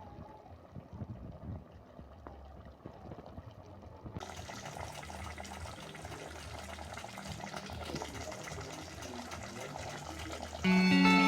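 Water running and filling a container, getting louder and fuller about four seconds in. Guitar music comes in near the end.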